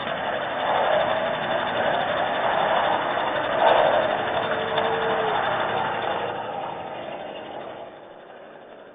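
A vehicle passing on a wet road, its tyre hiss swelling and then fading away over several seconds.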